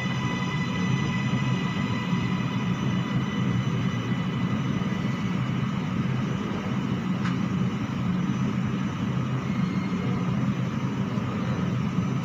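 Steady low hum and rumble inside an MRT Kajang Line train standing at a station platform. A faint high whine fades out in the first second or two.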